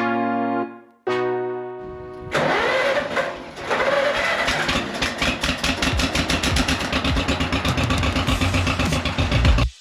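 A tractor engine cranking, its pitch rising as it catches, then running with an even pulsing beat of about five a second before cutting off suddenly near the end. Keyboard chords play briefly at the start.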